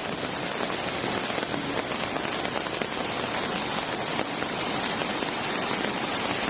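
Heavy rain falling steadily in a storm, a dense even hiss of drops striking surfaces.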